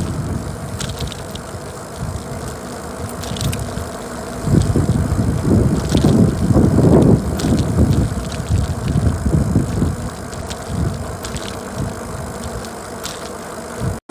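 Wind buffeting the microphone of a moving bicycle rider, gusting louder about four to eight seconds in, with scattered sharp ticks.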